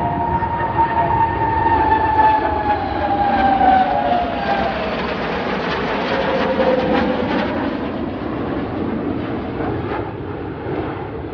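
Jet aircraft passing by low and loud: a steady engine roar with a whine that falls in pitch over the first few seconds as it goes past, then fades a little.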